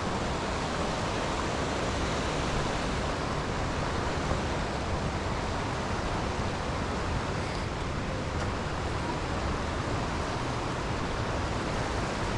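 Steady rushing of river water from the falls and rapids, an even hiss and rumble that neither rises nor falls.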